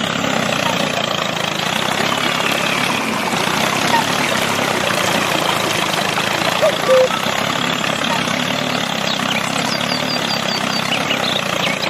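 A small engine idling steadily, with a few short high chirps in the second half.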